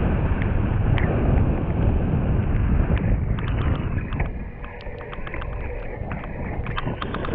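Wind buffeting the microphone, a heavy low rumble that eases about four seconds in, leaving scattered sharp clicks and taps.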